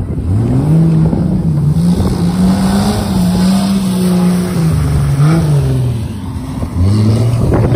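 Off-road sprint racing vehicle's engine revving hard under acceleration, its pitch climbing, holding and dipping several times, easing off about six and a half seconds in and then climbing again.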